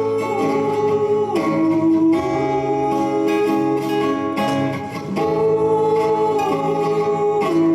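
Acoustic guitars strumming with a few cajon hits, and a voice holding long wordless notes that slide between pitches.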